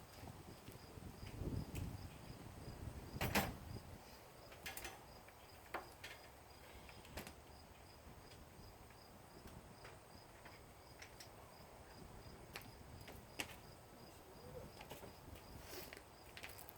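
Scattered light clicks and knocks of tools and metal parts being handled, with a louder clatter about three seconds in, over a faint steady high-pitched pulsing tone.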